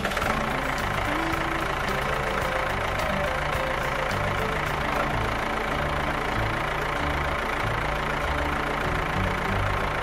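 A tractor engine running steadily at idle, a continuous rumble with rapid low knocking.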